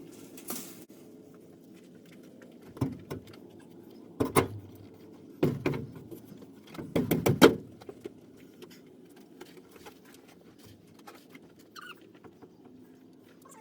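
A handful of sharp knocks and clatters, loudest in a quick cluster about seven seconds in, over a steady low hum.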